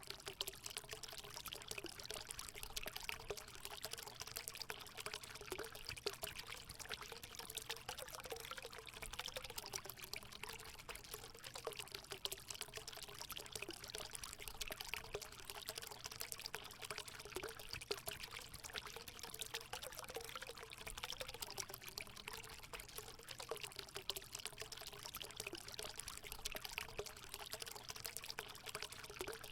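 Water pouring steadily into a hot spring pool, a continuous splashing trickle with a gurgling burble.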